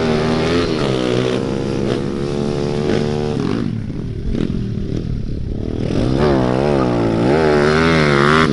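Small four-stroke pit bike engine being ridden, its revs rising and falling with the throttle. The revs drop away for a couple of seconds about halfway through, then swing up and down several times in quick succession near the end.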